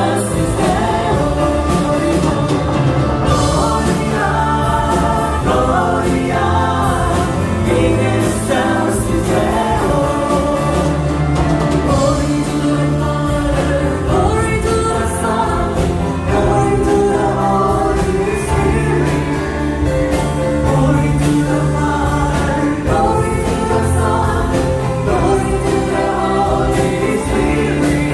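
A choir singing with instrumental backing: held bass notes and a steady beat under the voices.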